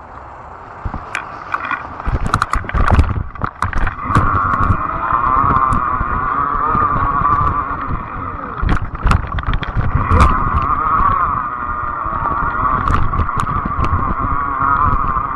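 Fat-tire e-bike riding: low wind rumble on the microphone and sharp knocks and rattles over bumps, then a steady, wavering whine from the moving bike about four seconds in. More clattering comes near the middle.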